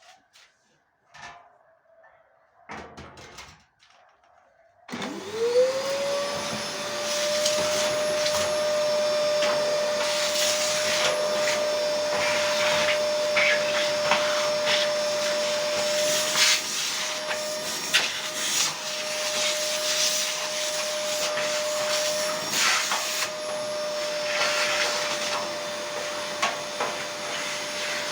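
A vacuum cleaner switches on about five seconds in, spins up quickly to a steady whine and keeps running with a loud rushing sound. Scattered rattles and ticks run through it, the sound of debris being sucked up. Before it starts there are only a few faint clicks.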